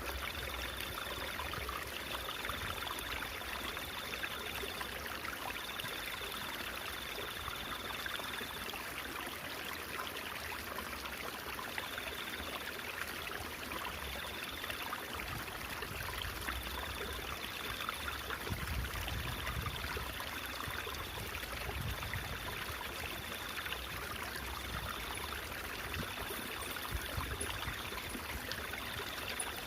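Babbling stream water flowing and trickling steadily, with a faint high tone that comes and goes in stretches of a second or more.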